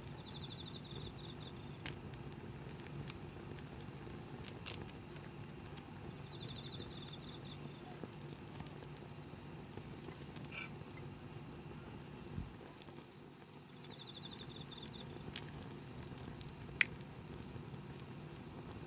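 Wood campfire crackling, with scattered sharp pops, the loudest late on. An insect trills three times in short bursts.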